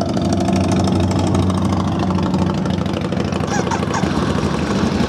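Ducati 848 EVO's 849cc liquid-cooled L-twin idling steadily.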